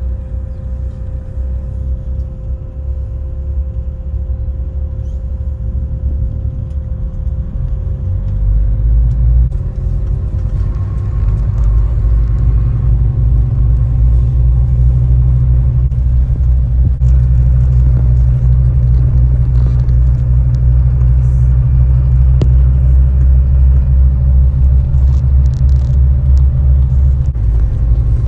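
Low engine and road rumble heard from inside a moving bus, growing louder about a third of the way in as the bus gets going, then holding steady.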